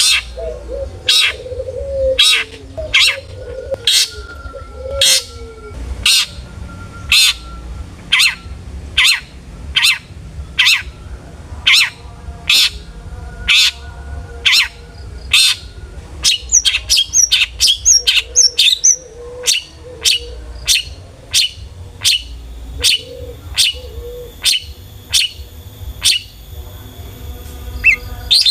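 Long-tailed shrike (cendet) singing: a run of sharp, evenly repeated calls, a little over one a second, that come faster after about halfway, with quick higher chirps mixed in around the middle. Softer, lower warbling notes sound underneath at times.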